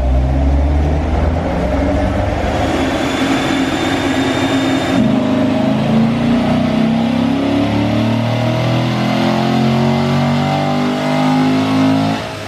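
Car engine accelerating hard, its pitch climbing steadily for several seconds, then dropping off suddenly near the end.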